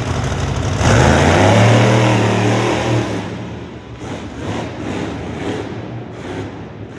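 Monster truck engine revving: it opens up sharply about a second in, the pitch climbing, then eases off after about three seconds and fades away.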